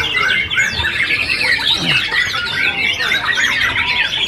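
Chorus of many caged songbirds singing at once, a dense, unbroken tangle of overlapping chirps, trills and whistled glides.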